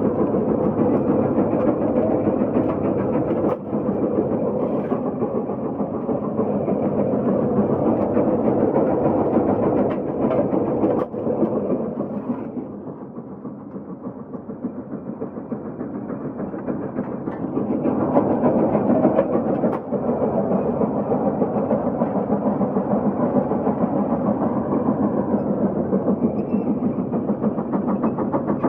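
Case 150 steam road locomotive working under the load of a 44-bottom plow, its exhaust beating fast and evenly. It eases off and goes quieter about twelve seconds in, then works hard again from about eighteen seconds.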